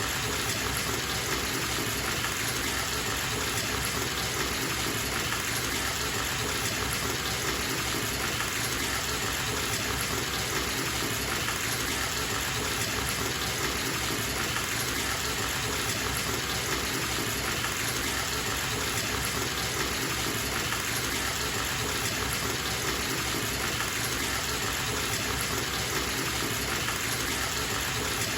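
Bathtub filling: water gushing steadily from the tap into the tub, a constant rushing hiss with no changes.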